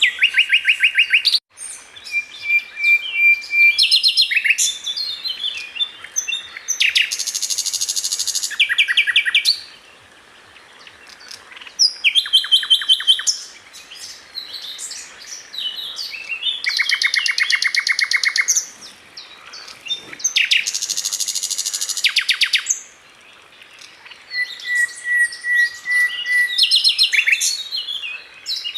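Sikatan londo, a flycatcher, singing in repeated bursts of rapid, high trills and chirps, each one to three seconds long, with short pauses between them and a few thin held whistles.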